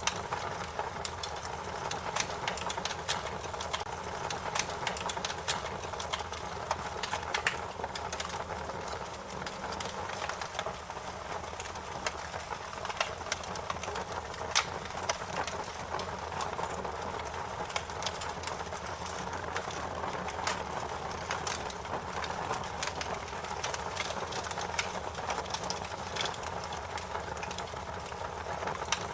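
Fire crackling: a steady hiss with frequent irregular pops and snaps, a few of them sharper and louder than the rest.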